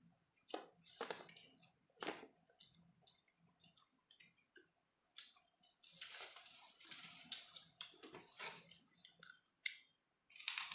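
A person chewing a mouthful of fried rice close to the microphone, with wet mouth clicks and smacks. About six seconds in comes a noisy stretch of about two seconds, and another short one near the end.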